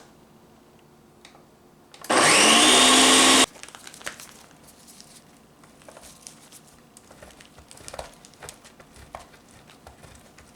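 Kitchen blender run in one short burst of about a second and a half, its motor whine rising as it spins up and then stopping abruptly, pureeing jarred pasta sauce with onion and fresh tomatoes. Light clicks and knocks follow.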